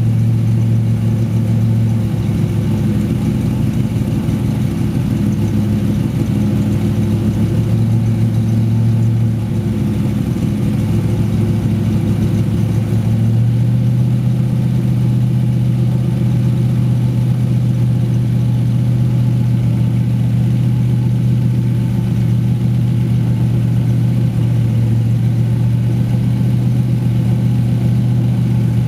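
Cadillac 500 cubic-inch V8 with a Competition Cams "Thumper" camshaft running at a steady idle; about halfway through, the engine note steps up slightly and then holds.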